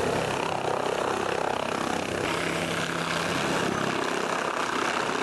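Turbine aircraft running steadily, a continuous engine and rotor or propeller hum at an even level.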